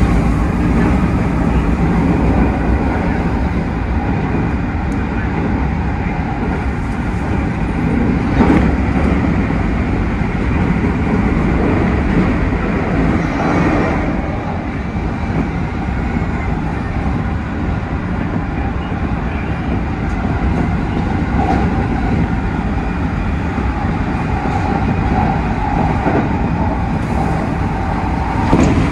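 Keikyu 1000-series electric train running at speed, heard from the driver's cab: a steady rumble of wheels on the rails, with a few short knocks about 8 and 14 seconds in and again near the end.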